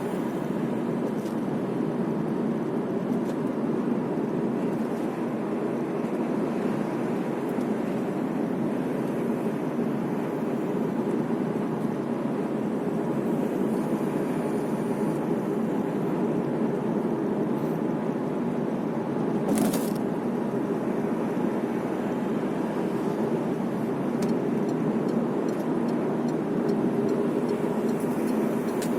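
Steady car road noise heard from inside the cabin while driving: an even rumble of tyres and engine. A single short sharp sound cuts through it about two-thirds of the way in.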